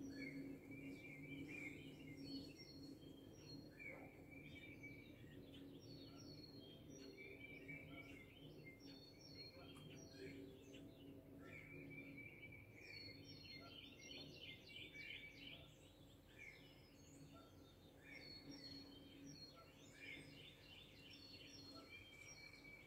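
Faint birdsong: several birds singing short, repeated chirping phrases over and over, over a steady low hum.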